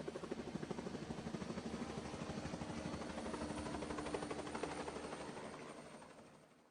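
A rapid, low fluttering pulse of about ten beats a second, like a rotor or engine effect, that fades out near the end.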